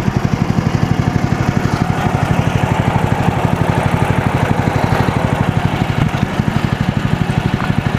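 Small gasoline engine of a MechMaxx SM32 sawmill running steadily with an even, rapid pulse.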